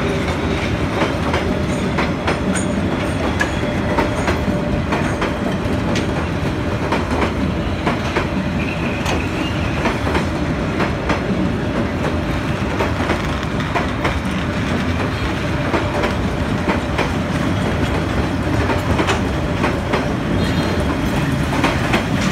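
Vietnam Railways passenger coaches rolling past close by: a steady rumble of wheels on rail, with a run of knocks as the wheels clatter over the rail joints.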